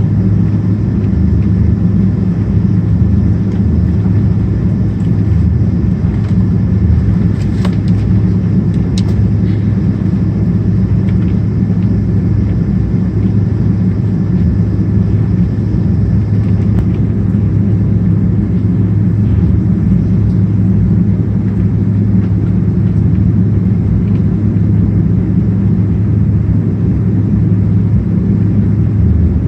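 Steady low rumble of a Boeing 777-200ER with its GE90 engines, heard from inside the passenger cabin, with a few faint clicks about eight seconds in.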